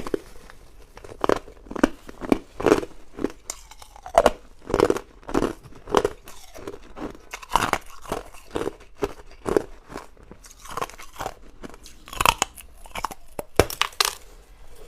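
Hard ice being chewed close to the microphone: a run of sharp, irregular crunches, about one or two a second, with a few louder ones near the end.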